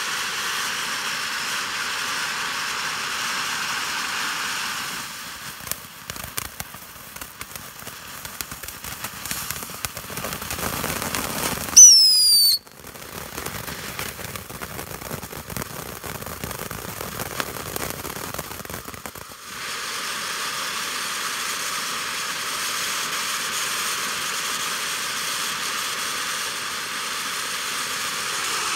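Consumer fireworks going off: a steady hiss, scattered crackling and pops, and about twelve seconds in a loud, shrill whistle falling in pitch that cuts off suddenly.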